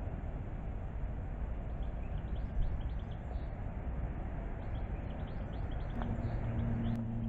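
Small birds chirping in short high calls over a steady low rumble of outdoor noise; about six seconds in, a low steady hum sets in.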